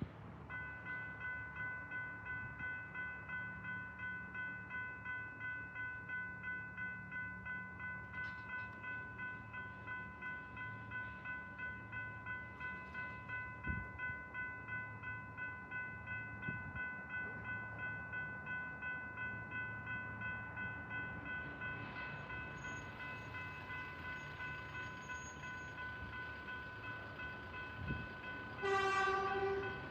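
Level crossing electronic bell (E-bell) ringing in a fast, steady, repeating rhythm while the crossing is active for an approaching train. Near the end a train horn sounds briefly, about a second long.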